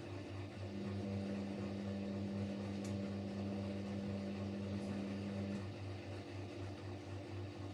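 Siemens Siwamat Plus 574 front-loading washing machine during its short spin, with a regular low pulsing hum from the turning drum and motor. A steadier humming tone joins about a second in and stops about five and a half seconds in.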